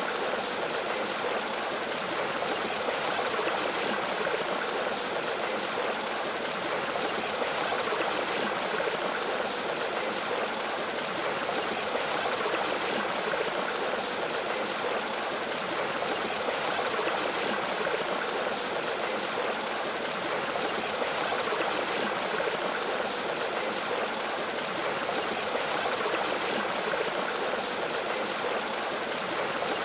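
Mountain stream flowing steadily over rocks with a small waterfall: a constant rushing and babbling of water with no changes.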